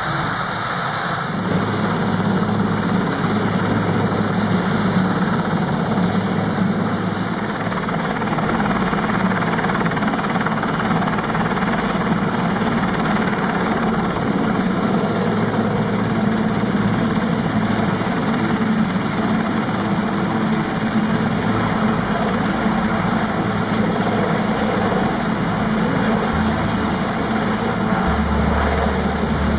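Large helicopter running: steady rotor and engine noise with a thin, high turbine whine that edges slightly upward.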